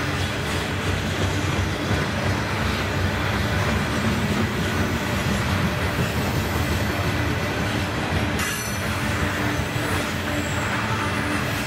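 A train rolling past on the rails: a steady, loud noise of wheels and cars going by, with a light, thin wheel squeal over it.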